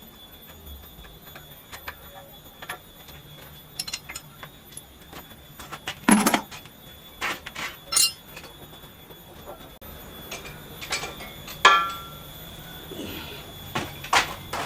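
Irregular knocks and metallic clinks of tools and metal parts being handled, the loudest knock about six seconds in, and a ringing metal clank near the end.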